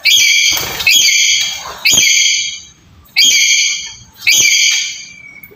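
Black-capped lory giving five loud, screeching calls about a second apart, each held steady in pitch for most of a second.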